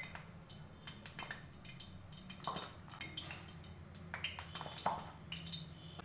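Kitchen handling sounds: dishes and utensils clinking and knocking in a loose string of light strikes, over a low steady hum.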